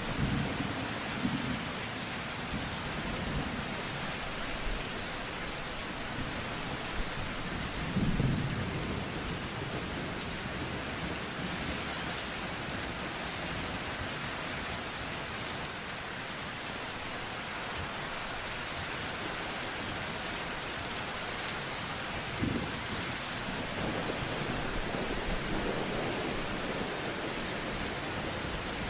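Steady rain falling, with low rolls of thunder near the start and again, strongest, about eight seconds in.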